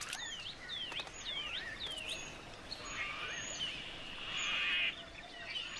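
Wild birds calling outdoors: a run of short swooping whistled notes, about two a second, then buzzy trills in the middle and near the end.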